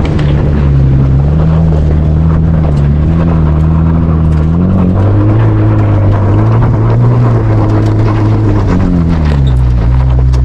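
Vehicle engine running while driving, its pitch rising and falling several times.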